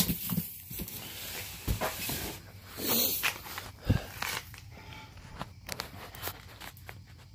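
Handling noise as a cardboard wheel box is turned over and searched for its label: rustling with scattered knocks and a couple of dull thumps, quietening toward the end.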